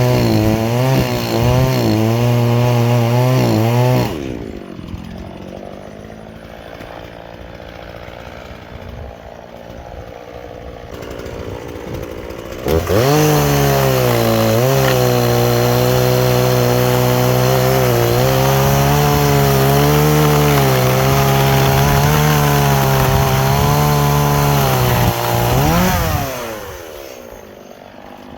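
Gas chainsaw cutting wood at full throttle, its engine pitch wavering under load. About four seconds in it drops to idle, revs back up and cuts again from about thirteen seconds, then falls back to idle near the end. The chain is dull, which the owner judges from the fine sawdust it throws instead of chips.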